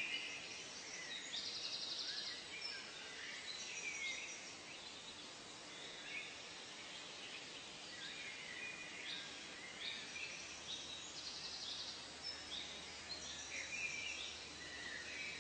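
Several birds calling and singing at once: short falling whistles and chirps, with a buzzy trill twice, over a soft steady background hiss.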